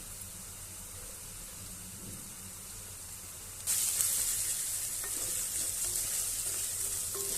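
Onions and ginger-garlic paste frying in hot oil in a pan, a soft sizzle that jumps suddenly much louder about halfway through and keeps sizzling strongly.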